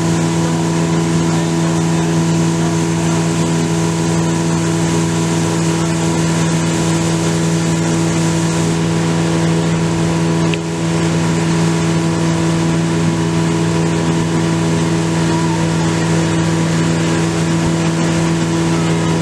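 Motorboat engine running at a steady, unchanging speed over a steady rush of water and wind noise, with one brief dip in level about ten seconds in.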